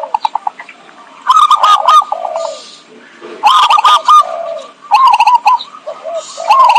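Zebra doves (perkutut) cooing, played as a lure call: four phrases of quick, trilling, looping coos.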